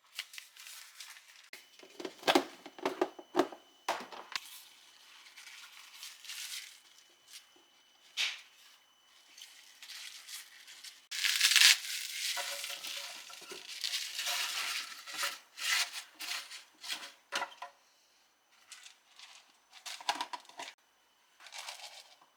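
Kitchen food-preparation sounds: an irregular run of clicks, knocks and crinkling rustles from handling utensils, dishes and packaging, loudest in a burst about 11 seconds in.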